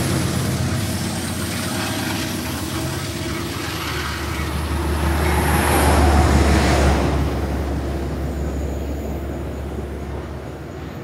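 Metro-North train with a P32AC-DM diesel locomotive pulling out of the station: low engine hum with wheel and rail noise. The hum swells about five seconds in, then the sound fades as the train draws away.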